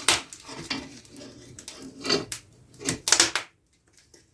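Wood fire in an open fireplace, giving several sharp pops and knocks at irregular intervals.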